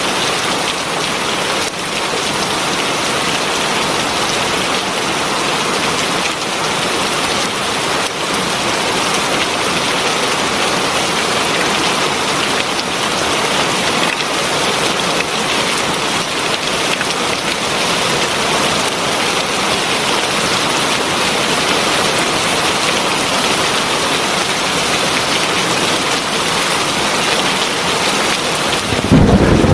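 Heavy rain falling, a steady dense hiss of drops on surfaces. A sudden louder, deeper rumble comes in just before the end.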